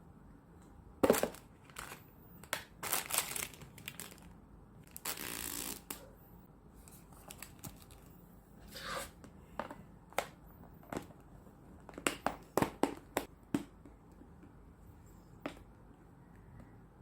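Household objects being handled: scattered sharp clicks and knocks with short bursts of rustling, and a steady rasping hiss lasting about a second, about five seconds in.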